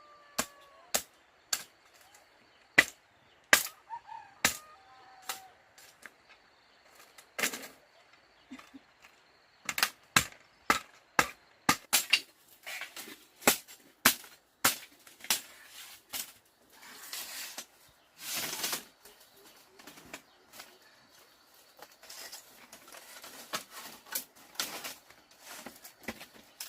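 A series of sharp knocks and taps at irregular intervals, up to about two a second, with two brief noisy sweeps past the middle.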